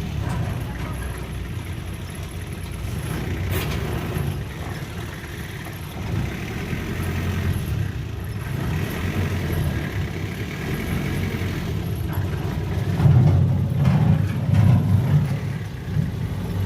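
Diesel engine of heavy earthmoving machinery running steadily with a low rumble, surging louder about three-quarters of the way through, with an occasional brief knock.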